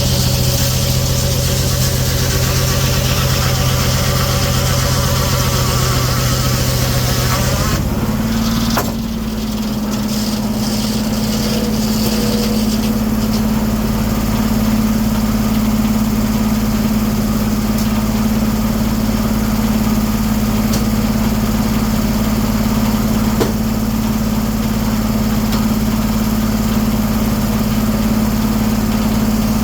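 1907 American sawmill with its circular saw in the cut: the running note is pulled down under load and there is a high cutting hiss. About eight seconds in the saw clears the log, the hiss stops and the mill picks back up to a higher, steady running note, unloaded.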